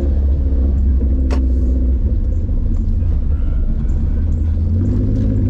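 1992 Subaru Sambar kei truck's engine running through an aftermarket exhaust, a loud low drone. Its note drops about two seconds in and comes back up near the end, and there is a single short click just over a second in.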